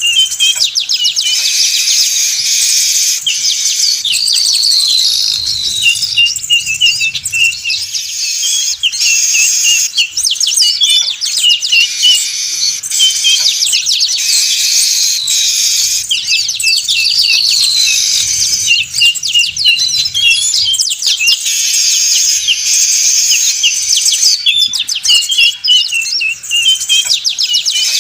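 A noisy group of weaver birds (manyar) chattering without a break, a dense run of quick chirps, trills and short falling notes: a bird-trapping lure call meant to draw in manyar.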